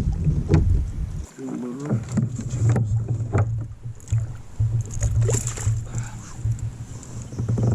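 Fishing kayak on the water: a steady low rumble with many irregular knocks and thumps against the hull.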